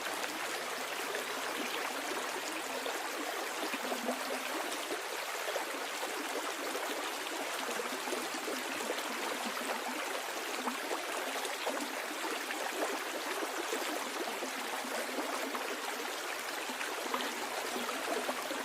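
Stream water flowing steadily downstream: an even, constant rush with many small splashes and trickles, and little deep rumble.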